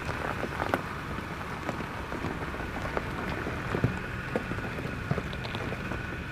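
Toyota 4Runner crawling over a rocky trail: tyres crunching on gravel and stones, with scattered sharp pops of rocks under the tread over the low steady run of the engine.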